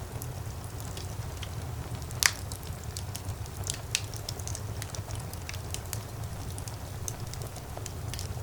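Fire in a fireplace crackling, with scattered small pops over a low, steady rumble of flames. One louder pop comes a little over two seconds in, and another near the middle.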